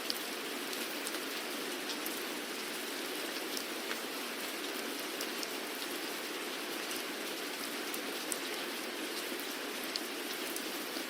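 Steady rainfall: an even hiss of rain with scattered sharp drips of individual drops striking a surface.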